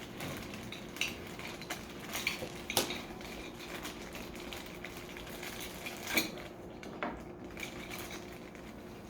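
A set of car keys jingling and clinking as they are handled, in a series of light irregular clinks, the loudest about six seconds in.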